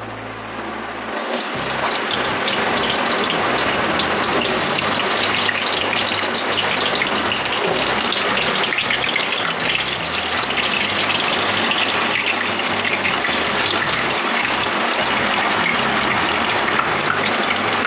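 Potato chunks shallow-frying in hot oil: a steady, dense sizzle that swells about a second in as the potatoes go into the oil.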